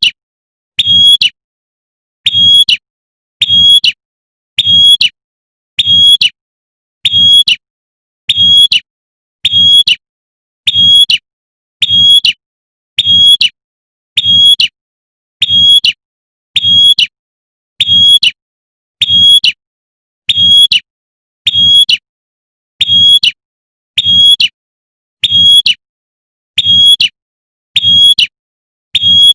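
Female prinia (prenjak) giving its sharp 'tembakan' call, repeated at an even rhythm about once a second. Each call is a short high note with a low buzz under it. It is the call said to draw in males.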